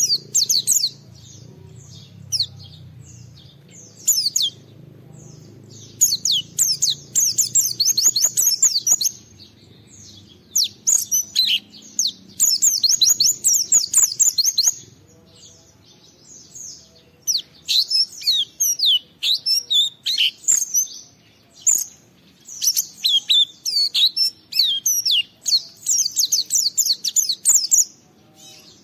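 A white-eye (pleci) singing in fast runs of high chirps and twitters. The phrases last a few seconds, with short pauses between them. This is the energetic 'gacor' song of a bird challenging a rival, the kind used as a lure to get other white-eyes to answer.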